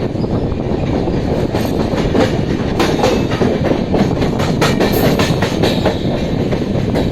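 Train running on the rails: a steady loud rumble with repeated clicks of wheels passing over rail joints.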